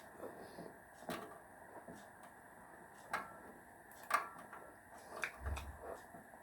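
A few light clicks and taps about a second apart, some with a brief metallic ring, and one dull low knock near the end: a spoon knocking against a pot of soup while it is stirred and tasted.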